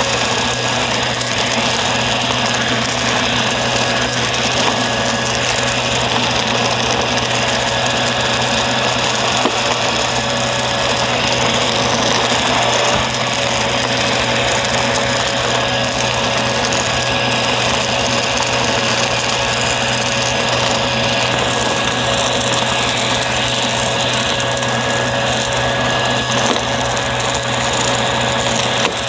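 Vacuum cleaner running steadily: an even rushing of motor and airflow with a constant whine on top.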